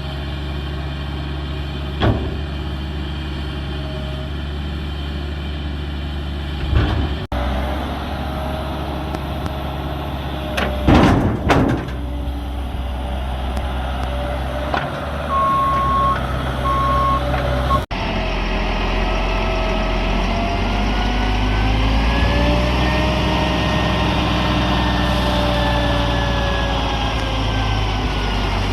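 Heavy diesel machinery running steadily, its engine revving up and down in the later part. Several loud knocks and crashes come about 2, 7 and 11 seconds in, and two short beeps sound midway.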